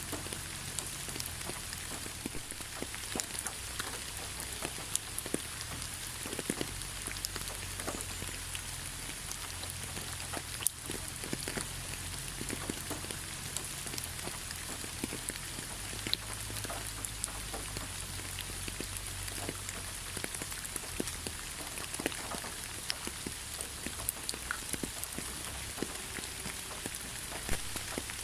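Steady rain falling in a rainforest, a continuous hiss with many close individual drops ticking and pattering on leaves and surfaces.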